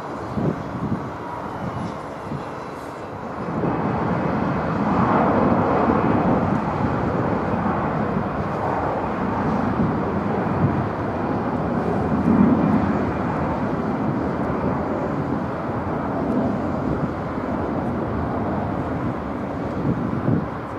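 Airliner engines passing close by, the noise swelling about three and a half seconds in and then holding steady, with a faint high whine near the start.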